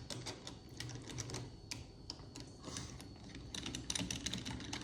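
Irregular small clicks and taps of hand tools and metal parts being handled while the secondary side of a Holley 4150 carburettor is taken apart to get at the jets.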